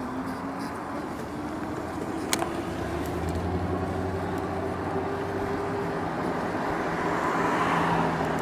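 Road traffic: a motor vehicle's engine hum sets in about three seconds in and holds steady, over a constant rush of wind and tyre noise. There is one sharp click a little past two seconds in.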